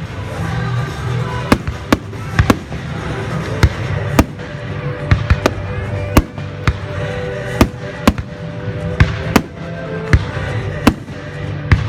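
Fireworks display: a string of sharp bangs going off at irregular gaps of about half a second to a second, with music playing underneath.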